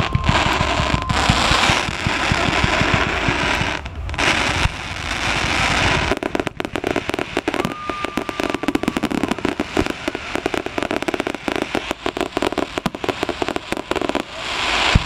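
Fireworks display: a dense barrage of bursts with a couple of whistles, turning about six seconds in to fast, continuous crackling, and ending on a sharp loud bang.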